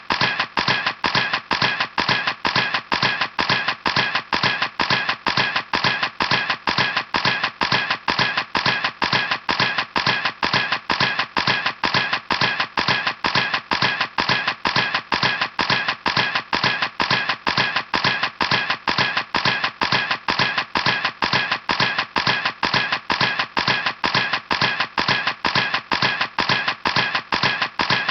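Camera shutter clicking over and over at a steady pace, about three clicks a second, with no break.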